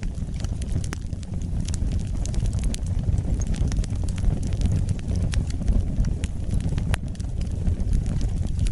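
Wood fire burning: a steady low rumble of flames with frequent sharp, irregular crackles and pops from the burning wood.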